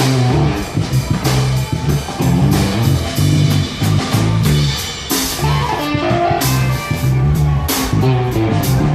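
Live electric blues-rock band playing: electric guitar over bass guitar and a drum kit, with steady drum and cymbal hits.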